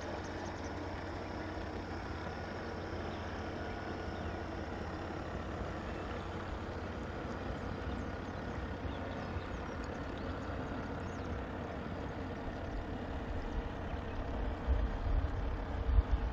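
Wind rumbling on the microphone, with a faint steady hum underneath; the buffeting turns into stronger, irregular gusts near the end.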